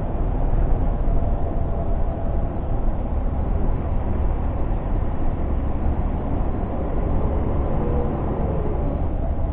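Scania G460 truck's 13-litre straight-six diesel running steadily under way, heard from inside the cab together with road noise.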